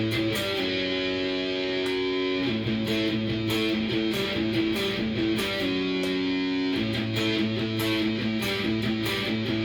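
Cort S series electric guitar played through a Fender amp, strumming chords. Each chord rings on and the chord changes every second or two.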